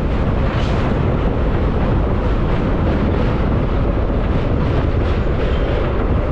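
Electric local train running at speed, heard from on board: a loud, steady rumble of wheels on the rails.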